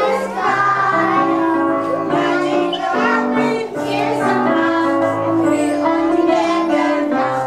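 Young children singing a song together with musical accompaniment.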